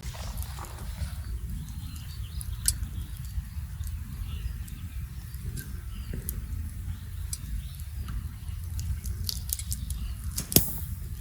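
Wood campfire crackling: scattered sharp pops, one louder near the end, over a low steady rumble.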